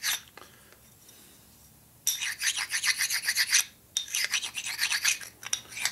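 Harley-Davidson panhead rocker arm rubbed back and forth on an abrasive to take off high spots, a rapid rasping. It starts about two seconds in and comes in two runs of quick strokes with a short break between.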